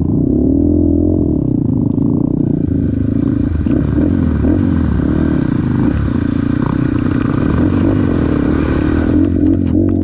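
Trail motorcycle engine running, its pitch wavering up and down as the throttle is worked, with a steady hiss over most of the stretch.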